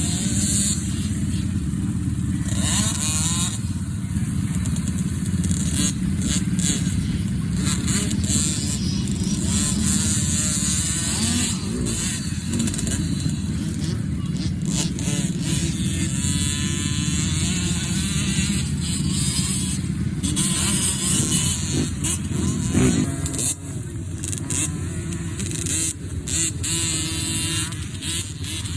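Motocross dirt bike engines running and revving continuously, easing a little about two-thirds of the way through.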